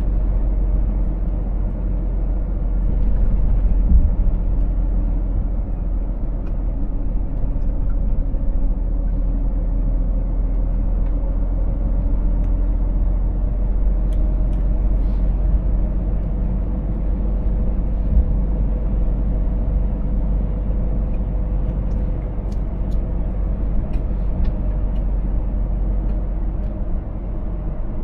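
Scania 500 S truck on the move: steady engine drone and road rumble with no changes in speed, and a few faint clicks in the second half.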